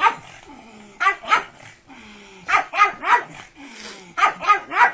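Pug barking excitedly in quick pairs and triplets, about nine sharp barks in all.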